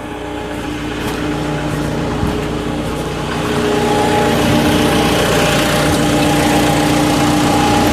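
The JCB 3CX backhoe loader's Perkins diesel engine running steadily, growing louder about three and a half seconds in.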